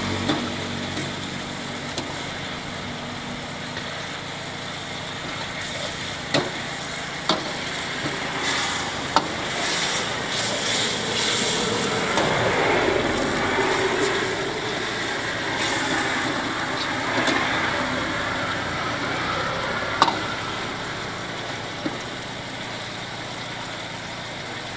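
Chicken curry frying and sizzling in an iron wok as a metal ladle stirs it, with scattered sharp clicks of the ladle striking the pan. A low steady hum fades out in the first few seconds.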